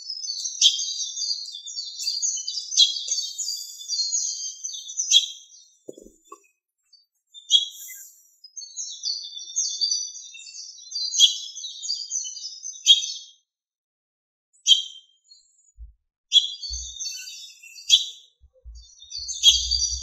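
Songbird singing in long runs of rapid, high chirping notes: three phrases of several seconds each, separated by short pauses with a few single chirps between.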